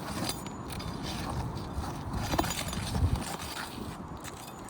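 Scrapes and knocks from working on brittle asphalt roof shingles while loosening them to pull the nails, with a couple of sharper clicks a little past halfway.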